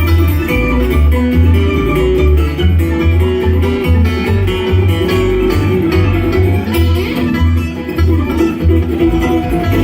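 Bluegrass band playing: fast picked guitar and banjo over a steady pulsing bass line.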